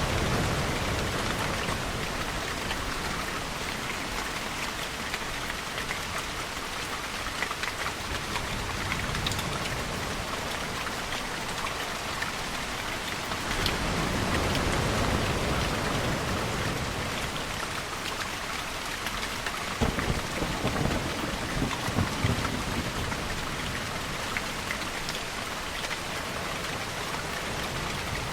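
Steady heavy rainfall. Distant thunder rumbles about halfway through, and there are a few sharper low rolls of thunder about twenty seconds in.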